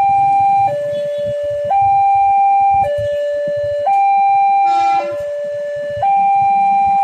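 Railway level-crossing warning alarm sounding a two-tone signal. A higher tone and a lower tone alternate, each held about a second, repeating steadily. A brief other sound cuts in near the middle, over low traffic rumble.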